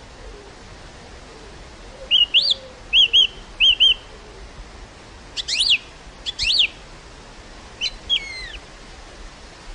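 Steady wind hiss over an open field, with a small bird chirping: three quick pairs of chirps from about two seconds in, then sharper sweeping calls and a few falling notes that stop shortly before the end.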